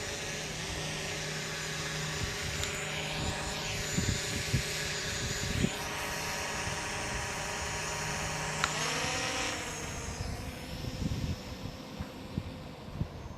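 Quadcopter drone motors and propellers whining steadily. About nine seconds in the pitch shifts and glides up, and after that the sound gets a little quieter.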